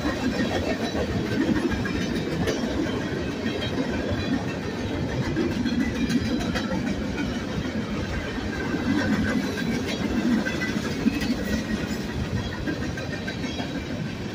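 Freight cars of a Union Pacific manifest train rolling past close by: a steady rumble of tank cars, flatcars and boxcars, with wheels clicking over the rail joints.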